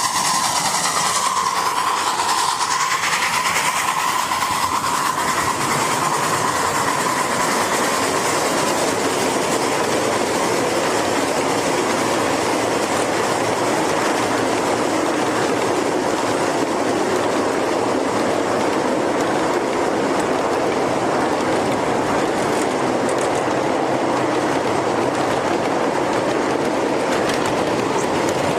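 Jeep Cherokee XJ running a tough-truck course, heard from onboard: loud, steady engine and drivetrain noise, with a steady whine for the first several seconds.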